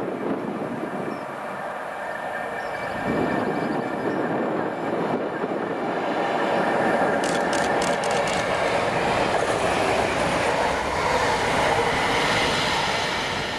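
A train passing at speed on the main line, its steady rush building to a peak and easing off at the end. A quick run of clicks from the wheels comes about halfway through.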